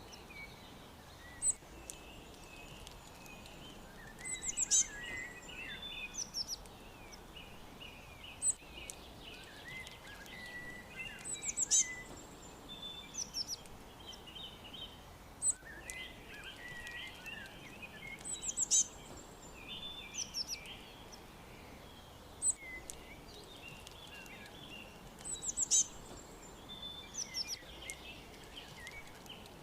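Several wild birds chirping and singing: short, sharp, high-pitched call phrases recur every few seconds over softer warbling chatter, with a faint steady hiss of outdoor background.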